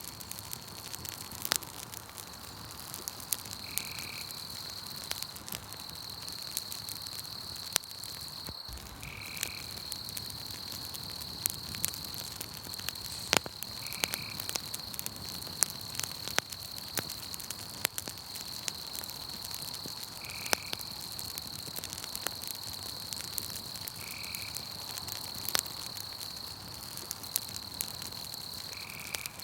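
Campfire crackling with scattered sharp pops, over a steady high-pitched insect trill that breaks off briefly now and then. A short lower call repeats about every five seconds.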